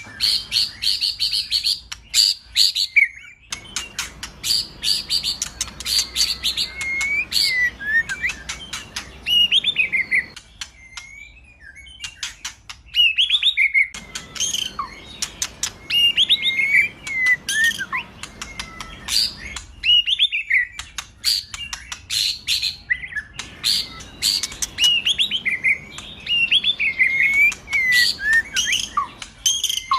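White-rumped shama (murai batu) singing a varied, loud song. It opens with fast rattling clicks and buzzy notes, then moves to phrases of rich whistles with rising and falling glides, separated by short pauses.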